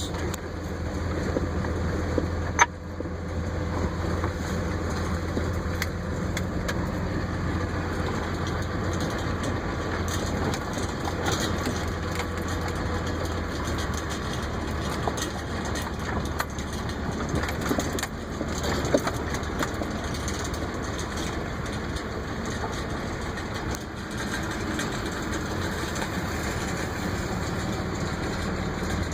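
Vehicle engine idling steadily with a low hum, with one sharp click about two and a half seconds in.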